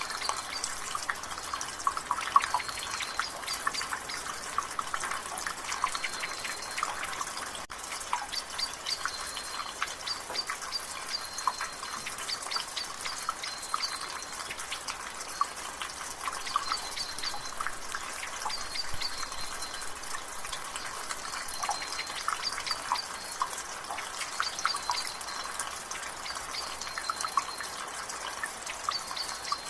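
Water dripping from a gutter in light rain: a steady, dense patter of irregular drips and splashes. A bird in the background repeats a short high note every two to three seconds.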